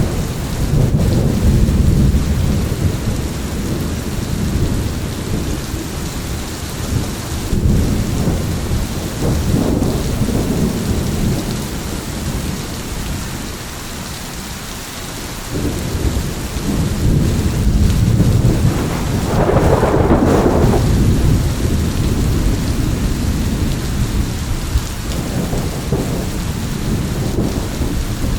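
Thunderstorm: steady heavy rain hiss under rolling thunder that swells and fades several times, with a louder, sharper crack of thunder about twenty seconds in.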